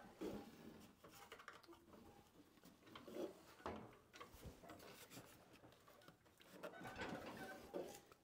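Faint, scattered clicks and knocks of metal parts as the radial arm saw's freshly loosened and lubricated arm is swung around its pivot, now turning easily.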